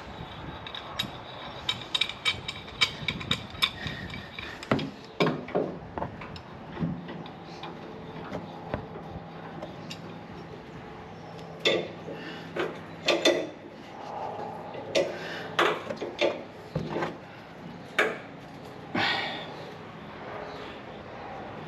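Hand tools working on the F-150's rear shock mounts: a quick run of ratchet-like clicks in the first few seconds, then scattered metal clanks and knocks with a few short scrapes.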